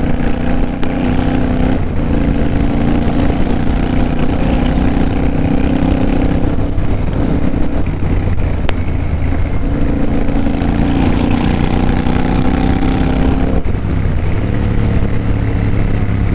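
Royal Enfield Continental GT 650's parallel-twin engine running loud with its silencers removed (straight exhaust) while riding, the engine note rising and falling with the throttle.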